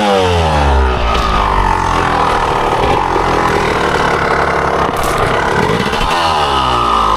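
Honda CR250 two-stroke dirt bike engine revved hard and held at high revs for several seconds, then dropping back and picking up again near the end. A sharp click about five seconds in.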